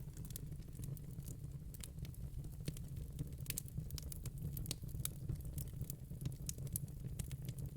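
Fire crackling: irregular small pops and snaps, several a second, over a low steady rumble.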